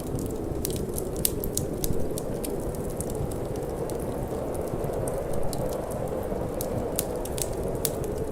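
Wood fire crackling, with frequent irregular sharp pops and snaps, over a steady low rush of wind.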